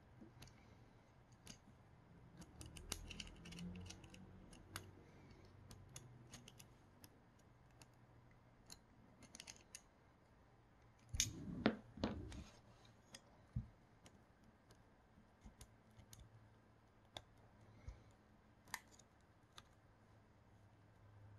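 Faint, scattered clicks and ticks of small parts and tools being handled while working on a 3D-printer extruder. A louder cluster of knocks comes about halfway through.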